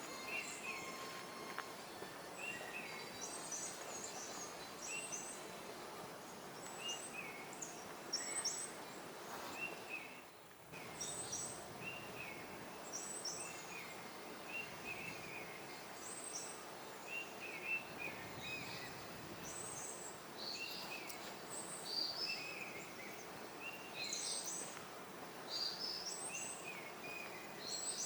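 Forest birds chirping: short notes repeated about once a second, with other higher chirps scattered among them, over a steady background hiss.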